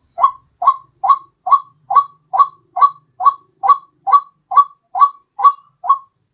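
White-breasted waterhen (ruak-ruak) calling: a steady, monotonous run of about fourteen short, slightly rising notes, a little over two a second, all at the same loudness. This is the repetitive call played as a lure for the bird.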